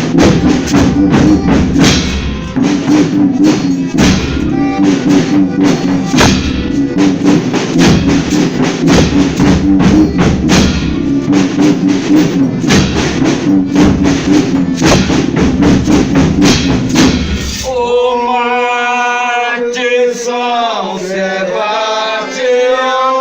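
Folk devotional group playing a fast rhythm on drums and tambourine over a steady low instrumental note. About eighteen seconds in the percussion stops and several voices begin singing a verse in long held notes.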